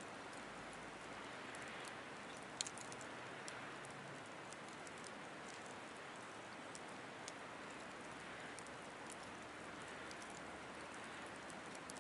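Wood fire burning in a Picogrill 760 stainless-steel fire pit: a steady faint hiss with scattered sharp crackles and pops, one louder pop about two and a half seconds in.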